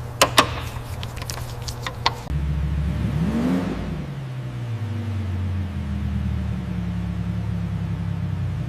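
A few sharp clicks, then a car engine starts about two seconds in, revs briefly and settles into a steady idle.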